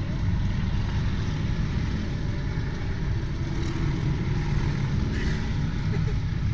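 Steady low rumble of motor vehicle engines heard from inside a car, with no sudden events.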